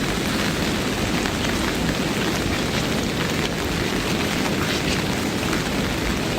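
Heavy rain falling steadily: an even, dense hiss with scattered sharper drop hits.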